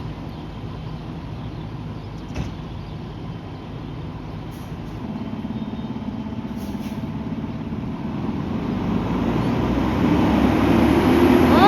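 Pierce Enforcer fire engine's diesel running and growing louder as it approaches, a heavy truck rumble that swells over the last half. At the very end its siren starts to wind up in a rising wail.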